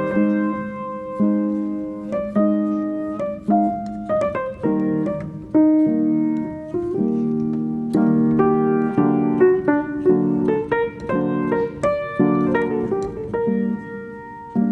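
Solo piano music: a slow melody over chords, each note struck and then fading.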